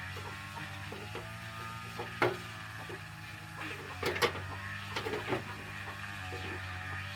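A steady low mechanical hum with a few sharp knocks and clatters, one about two seconds in and a cluster between four and five and a half seconds in.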